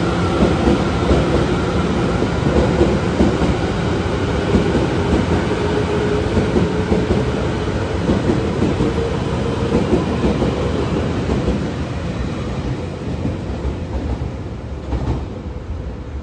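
Taroko Express tilting electric train pulling out of a station and running past: wheels on the rails with a steady whine. The noise falls away over the last few seconds as the train moves off.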